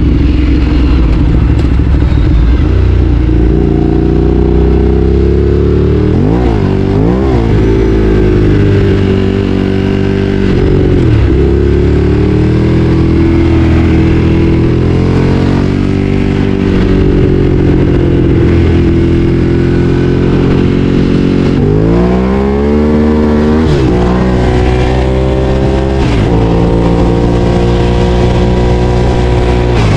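Ducati Streetfighter 848's L-twin engine running under way. Its pitch holds steady for long stretches, swings up and down quickly about a quarter of the way in, and climbs sharply in a run of revs about three quarters of the way in before dropping back.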